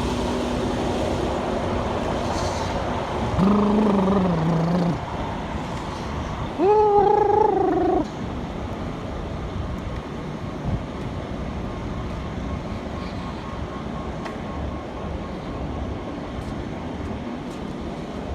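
Steady outdoor vehicle and traffic rumble. Two short pitched sounds break through it: a low hum about three seconds in, then a higher tone that rises and holds a few seconds later.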